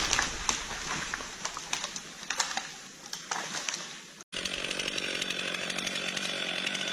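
Fading rush of noise broken by sharp cracks. About four seconds in it cuts off abruptly, and a chainsaw is heard running steadily.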